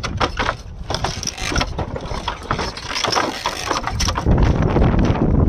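Bamboo footbridge slats creaking and clattering under people's footsteps, with many irregular clicks and knocks. About four seconds in, wind buffets the microphone with a low rumble.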